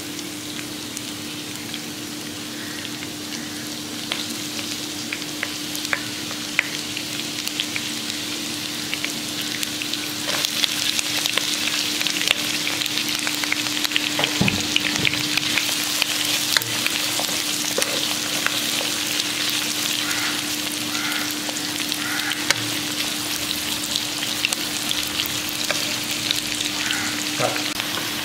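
Garlic, ginger, curry leaves and pandan frying in hot oil in a pan: a steady sizzle full of small crackles and pops. It grows louder partway through, once diced onion is in the oil.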